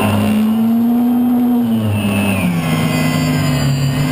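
Turbine engine of an unlimited hydroplane heard from onboard, running loud; its pitch rises slightly, holds, then drops about two seconds in, with a high whine above.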